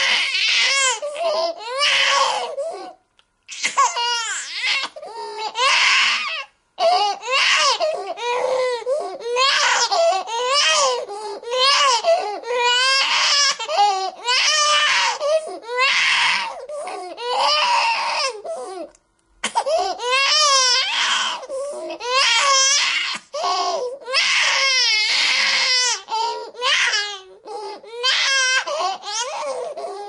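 Newborn baby crying: repeated high, wavering wails about a second long, one after another. The crying drops out briefly about three, six and a half and nineteen seconds in.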